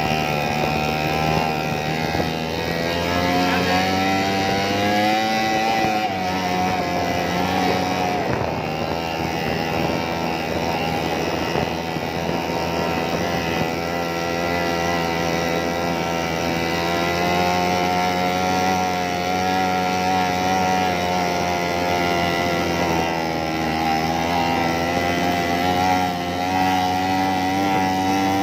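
Motorbike engine running continuously, its pitch rising and falling as the throttle opens and eases off, with a climb a few seconds in and another near the end.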